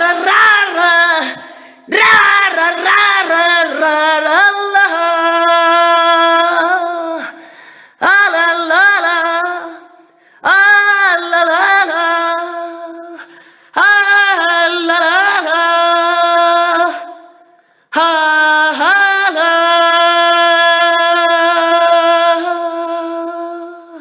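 A woman singing unaccompanied in wordless phrases. There are about six of them, each opening with a wavering, ornamented run and ending on a long held note, with brief pauses between.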